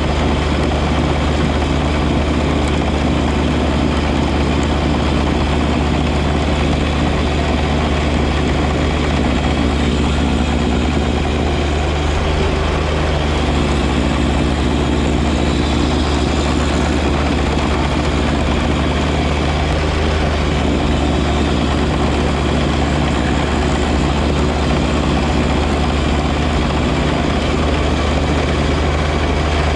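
John Deere 1025R compact tractor's three-cylinder diesel engine running steadily at a constant speed, with a broad even mechanical noise over it.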